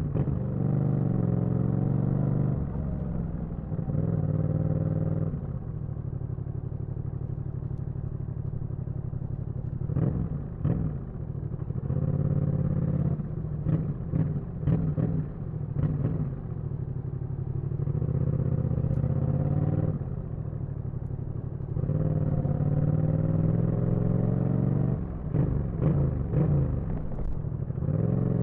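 Yamaha MT-07's parallel-twin engine on the move, revving up and dropping back several times as it pulls away and shifts. Clusters of short sharp cracks come through twice, in the middle and near the end.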